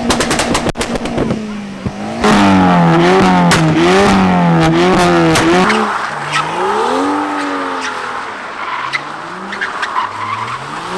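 A car engine revving hard, loud from about two seconds in, its pitch bouncing up and down about twice a second, then rising and falling in slower sweeps toward the end.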